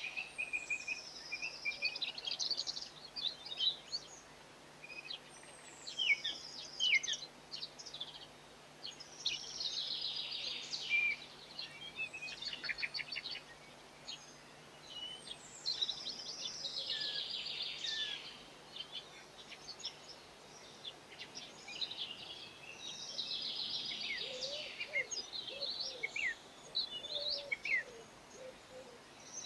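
Small songbird singing outdoors in repeated bouts of high twittering phrases a few seconds apart, with rapid trills and quick falling notes.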